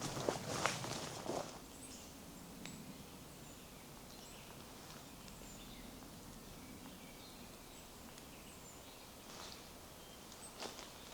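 Faint birdsong in a quiet forest: scattered short chirps and calls from several birds over a soft, steady background. Footsteps on the forest path sound in the first second or so and again briefly near the end.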